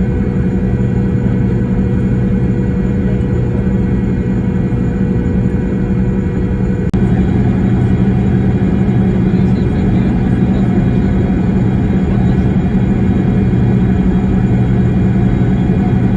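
A vehicle engine running with a steady low hum. There is a brief break about seven seconds in, after which it runs slightly louder.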